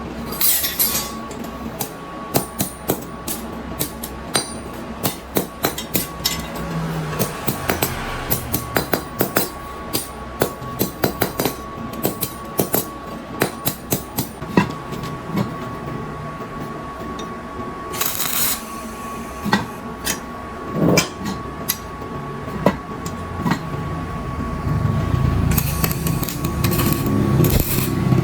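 Metal being struck with a hammer and metal parts clinking together, in irregular runs of sharp knocks that are densest in the first half. A faint steady high tone runs underneath, and a rushing noise with a low rumble swells near the end.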